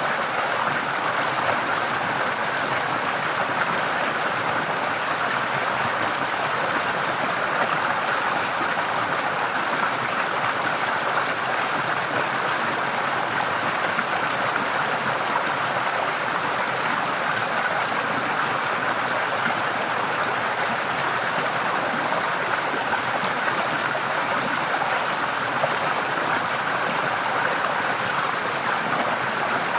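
A forest stream running over rocks: a steady, even rush of flowing water.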